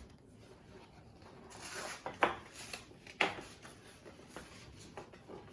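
Paper pages of a picture book being handled and turned: a soft rustle, then two crisp flicks about a second apart, with a few lighter ticks after.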